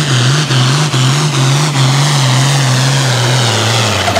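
Ford hot farm pulling tractor's diesel engine under full load, its note wavering up and down about twice a second as the tractor bounces down the track, then sagging near the end as the engine is pulled down. A high whine falls slowly along with it. The sag is the sign of running too much gear.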